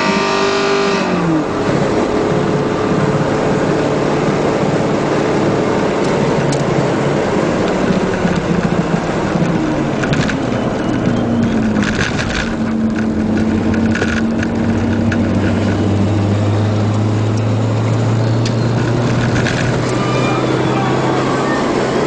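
In-cabin sound of a Mitsubishi club car's engine running hard around a circuit, over wind and road noise. The engine pitch falls near the start and again about halfway through, then holds steady, with a few sharp clicks or rattles around the middle.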